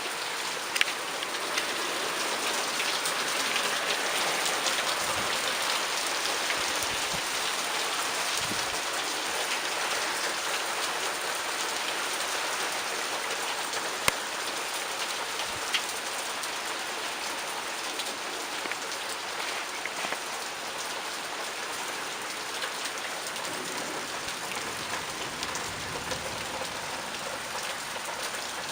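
Heavy rain pouring steadily in a dense, even hiss, with a few sharp clicks now and then.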